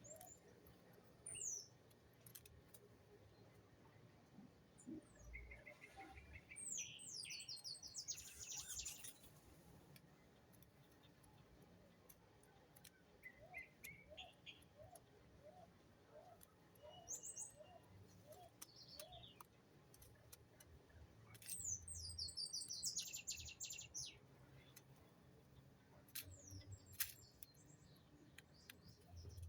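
Birds chirping and singing: two spells of quick, high twittering trills with scattered single chirps, and in between a run of short, evenly spaced low notes.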